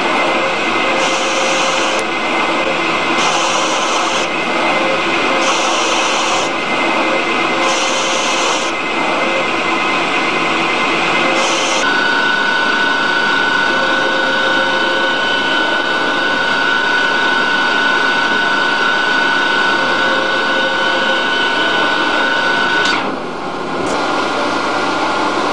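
Hardinge two-axis CNC lathe running: steady machine noise with a hiss that comes and goes about every two seconds through the first half, then a steady high whine from about halfway that drops out briefly a couple of seconds before the end.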